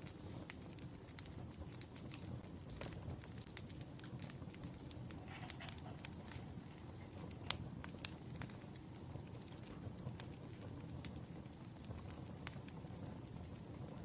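Wood fire crackling, with irregular sharp pops over a low, steady rumble of burning logs.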